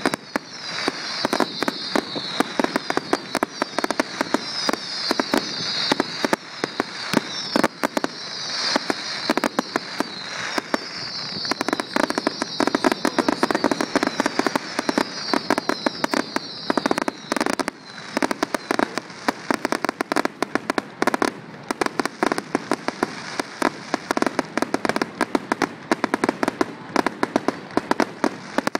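Aerial fireworks display: a dense, continuous barrage of bangs and crackling bursts. A high, repeated falling whistle runs through the first seventeen seconds or so, then stops, leaving only the bangs and crackle.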